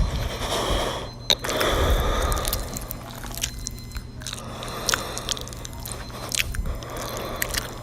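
Irregular scraping and crunching noises with scattered sharp clicks over a steady low hum.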